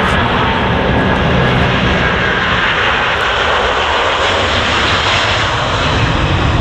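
Jet airliner's engines running loudly and steadily as the aircraft moves along or near the runway.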